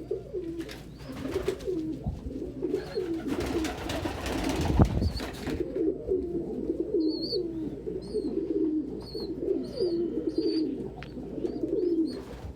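Several domestic pigeons cooing continuously, their calls overlapping. A burst of rustling noise comes about three to five seconds in, and a run of short high chirps follows in the second half.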